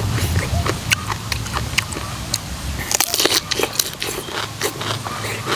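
Close-up eating sounds: wet chewing and lip-smacking with many irregular sharp clicks and crunches, from a mouthful of spicy som tam papaya salad.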